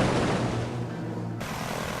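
A loud whoosh of noise with a low drone under it dies away, then cuts off abruptly about one and a half seconds in. Steady aircraft engine noise follows.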